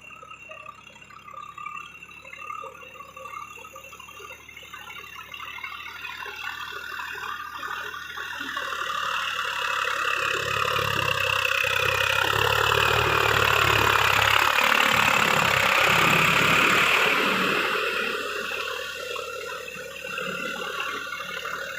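Swaraj 744 FE tractor's diesel engine driving past: it grows louder over several seconds, is loudest a little past the middle, then fades away.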